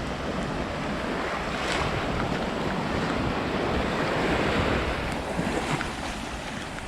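Sea water washing and lapping around a waterproof camera held at the surface, with wind buffeting the microphone. It is a steady rushing wash that swells a little about four seconds in.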